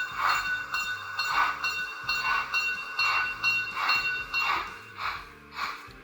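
Zimo sound decoder in a Roco model Prussian T12 steam tank locomotive, playing steam-engine chuffs at an even beat of about two a second. A steady high tone runs under the chuffs and stops about four and a half seconds in.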